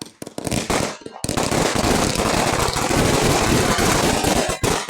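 A firework going off: a few sharp bangs, then a dense, very rapid crackling that runs for about three and a half seconds and cuts off suddenly.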